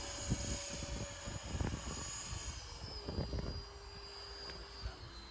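Electric motor and propeller of a radio-controlled model airplane whining steadily, dropping in pitch about halfway through as the throttle is eased back. Irregular low bumps from wind on the microphone run under it.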